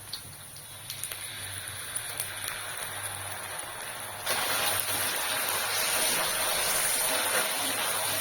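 Light clicks and taps, then about four seconds in a loud, steady hiss of cooking on the stove starts suddenly and keeps going.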